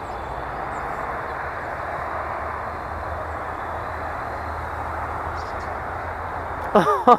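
Steady outdoor background rush with a low hum under it. Near the end comes a brief, loud pitched call that falls in pitch.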